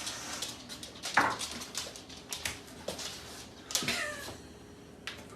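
A dog giving a few short, high whining cries that slide down in pitch: one about a second in, one near three seconds and a longer one around four seconds.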